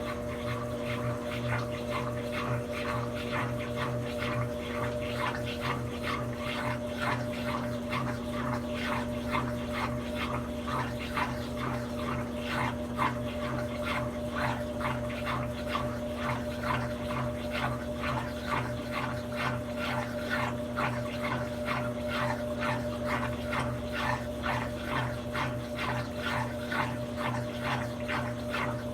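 Brastemp 17 kg washing machine running mid-cycle: a steady motor hum under a rhythmic swishing of water and laundry, about two to three strokes a second.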